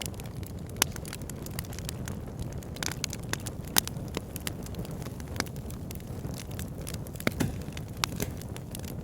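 Wood fire burning in a log burner, crackling: a steady low rumble of flame with irregular sharp pops, the loudest about a second in, near four seconds and just past seven seconds.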